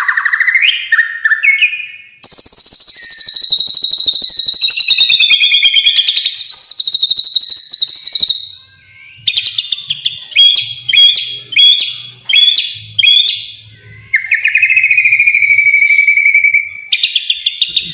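Loud, high-pitched songbird calling: long, fast trills about two to eight seconds in, then a series of short repeated chirps and a lower trill near the end.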